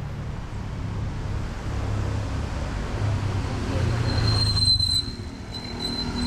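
Street traffic on a rain-wet road: cars passing with a low engine rumble and a hiss of tyres that swells about four seconds in, when a steady high-pitched whine begins.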